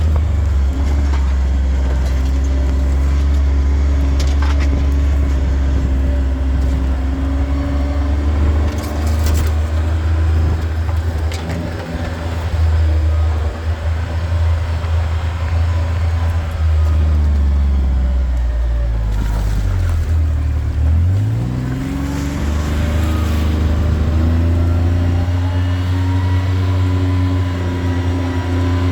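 Vehicle engine running steadily while driving along a dirt track. About two-thirds of the way through, the engine note drops as it slows, then climbs again as it picks up speed.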